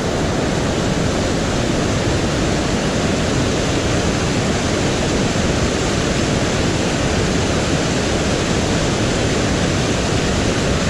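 Mountain stream water rushing steadily over rocks, a loud even roar.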